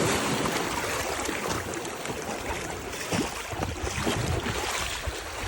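Atlantic Ocean surf washing onto a sandy beach, a steady rushing hiss, with a few brief low thuds.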